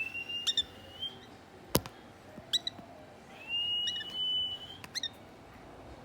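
Three-week-old African lovebird chicks giving short, high chirps, with two long steady whistles of about a second each, one at the start and one in the second half. A single sharp click comes a little under two seconds in.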